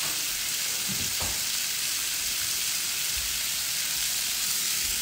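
Shrimp sizzling in hot oil in a frying pan, a steady hiss, with a couple of soft knocks about a second in.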